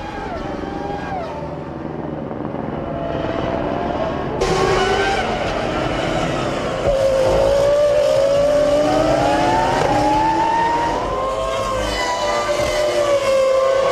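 Several Formula One cars' V10 engines revving and accelerating, many engine notes rising in pitch together. The sound gets louder about four seconds in.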